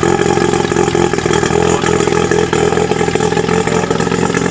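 Car engine idling, a steady drone that holds its pitch throughout.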